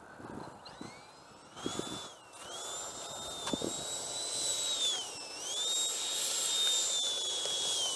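A Freewing F-22 RC jet's 90 mm electric ducted fan spools up to a high whine, dips twice as the throttle eases, then holds steady as the model taxis through grass.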